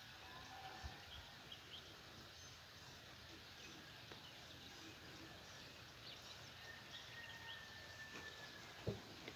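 Faint birdsong: scattered short chirps and one long thin whistled note, over a quiet outdoor background. A single soft thump sounds near the end.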